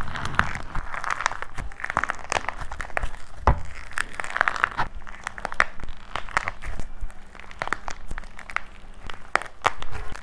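Dry plaster clay being crushed and cracked by hand: a dense run of irregular crunchy crackles and snaps, with a sharper snap about three and a half seconds in.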